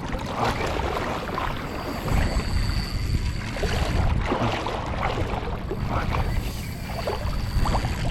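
Water sloshing and splashing around a wading angler's legs as he fights a fish in the shallows, with wind rumbling on the microphone. A thin steady whine rises above it for a couple of seconds about two seconds in.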